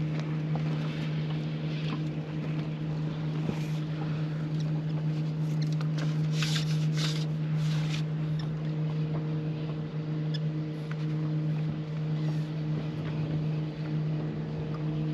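Boat motor running at a steady, even hum, with a few short hissy noises partway through.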